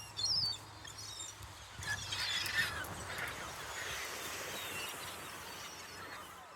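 A flock of gulls calling. One sharp cry comes just after the start, then from about two seconds in a busy chorus of overlapping cries that slowly thins out.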